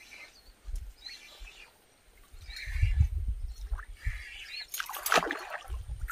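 A bird calling outdoors, a short high chirp repeated about every second and a half, over low rumbling bumps on the microphone that are loudest about three seconds in, with a brief sharp noise near the end.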